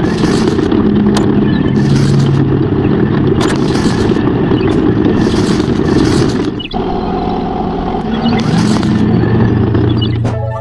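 Mini tractor engine running loudly, its speed shifting up and down, with a brief drop in sound about two-thirds of the way through.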